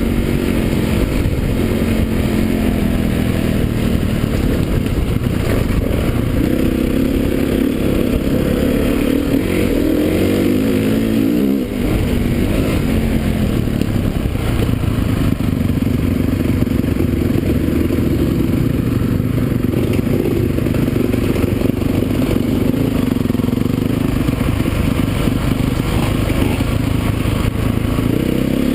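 Motocross motorcycle engines revving, the pitch rising and falling with the throttle and dipping briefly about twelve seconds in.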